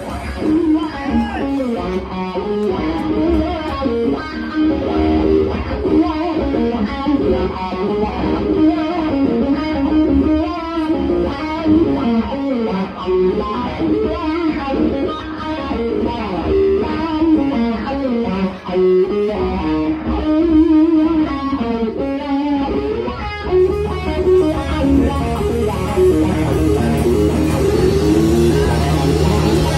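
Rock band playing an instrumental passage: an electric guitar plays a winding lead line over bass guitar. About 24 seconds in, the sound thickens, with a held low bass note under the guitar.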